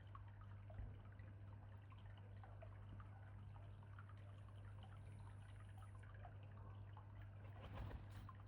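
Faint trickling and dripping of water at a small pond, with many small drips over a steady low hum. A brief, slightly louder rustle or splash comes near the end.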